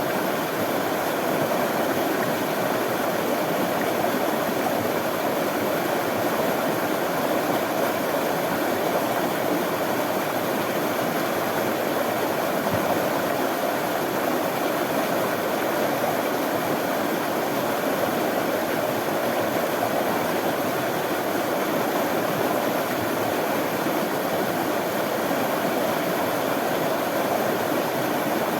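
Running water: a steady, even rush of flowing water that holds without a break.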